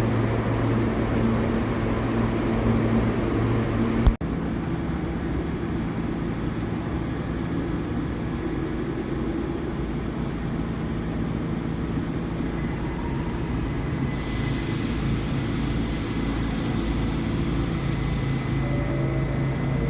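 Subway train running, a steady rumble with a low electrical hum whose tones shift slightly over time. A single sharp click about four seconds in.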